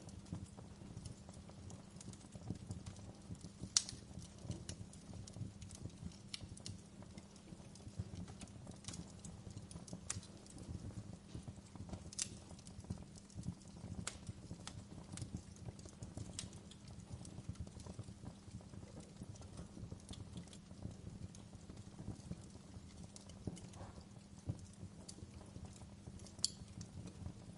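Wood fire burning in a fireplace: a steady low flame rumble with irregular crackles of burning firewood, and a few louder sharp pops.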